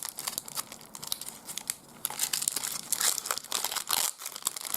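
Crinkling and tearing of a trading-card pack's wrapper as it is opened, a quick irregular run of small crackles.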